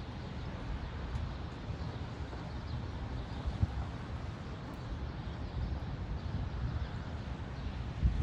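Wind gusting against the microphone, an uneven low rumble that surges in gusts, with a steady outdoor hiss beneath it.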